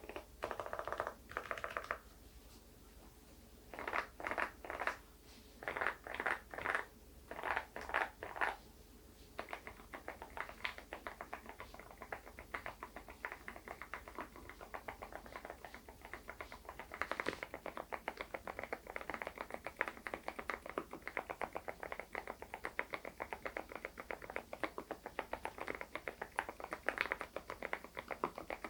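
Typing on an SPM PL108W full-size keyboard with lubricated low-noise Mokse switches: a few short runs of keystrokes, then steady fast typing from about ten seconds in.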